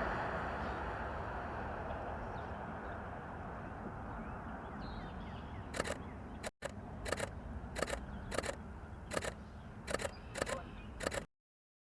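Canon R5 camera shutter firing single frames: about nine sharp clicks at uneven intervals, starting about six seconds in.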